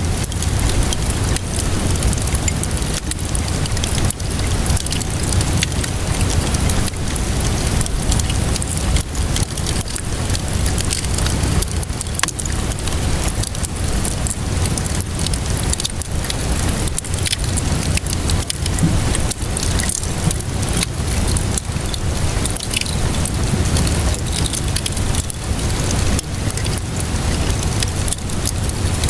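Fire crackling with steady rainfall: a dense patter of small pops and clicks over a constant hiss and a low rumble.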